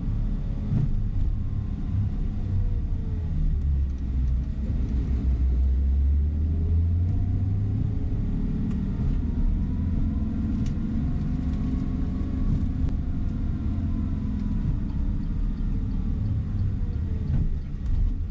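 Coach bus running on the road, heard from inside the cabin: a steady low rumble of engine and tyres, with the engine note dipping and rising as the bus changes speed.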